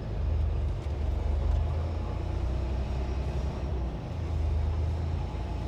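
Semi-truck diesel engine running with a steady low rumble as the tractor-trailer gets under way.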